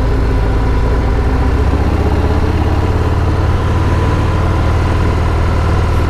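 Motorcycle engine running steadily while riding, its exhaust note a deep, even pulsing.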